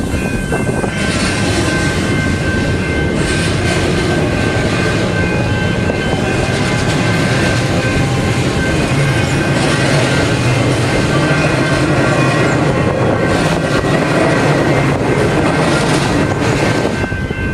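Metro suburban electric train passing through a level crossing: a loud, steady run of wheel and motor noise, with the crossing's electronic bells ringing at the same time.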